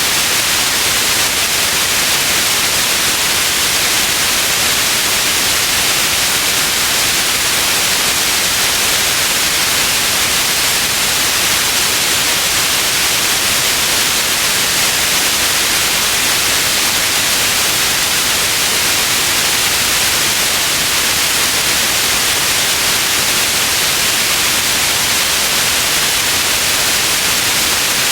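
Steady white noise: an even, unchanging hiss, strongest in the high range, with no variation or events.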